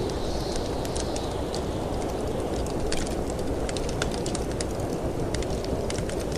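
Wood fire crackling in a fireplace, with irregular sharp pops and snaps, over the steady low rumble of snowstorm wind. A faint high whistle of wind fades out in the first second or so.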